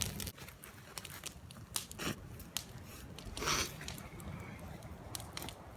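Campfire crackling, with scattered sharp pops and a brief rush of noise about three and a half seconds in.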